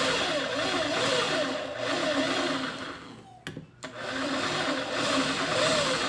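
Small electric motor of a mini drill press running, its pitch wavering up and down. It drops out briefly about halfway, then runs on.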